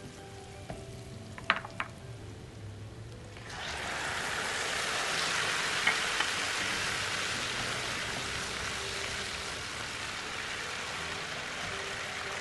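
Food sizzling in hot oil in a frying pan, setting in suddenly about three and a half seconds in and staying loud, after two sharp utensil clicks. Faint background music underneath.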